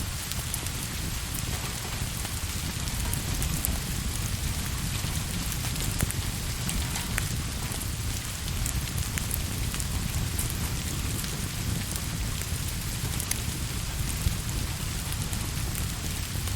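Steady rain falling, with a low rumble beneath it and scattered sharp ticks.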